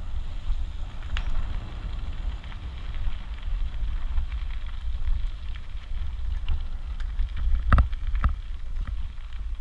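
Wind buffeting the camera's microphone: a steady low rumble, with a few sharp clicks about a second in and twice near the end.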